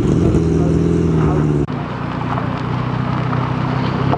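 Car engines idling at a steady note, with an abrupt cut about one and a half seconds in to another engine running a little more quietly.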